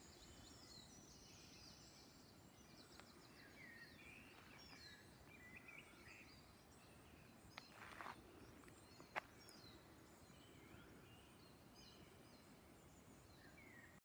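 Faint woodland birdsong: several small birds chirping and trilling, with a fast trill near the start, over a low rumbling background. Two brief sharp clicks stand out about eight and nine seconds in.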